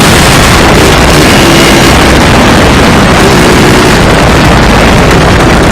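Two-stroke dirt bike engine running loud and steady, overloading the microphone.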